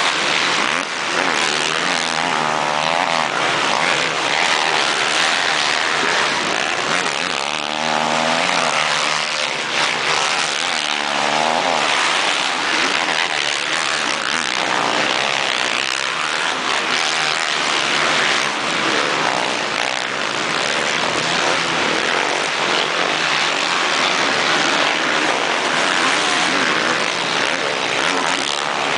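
Motocross motorcycle engines running at high revs, with a continuous buzzing drone whose pitch rises and falls, most clearly from about eight to twelve seconds in.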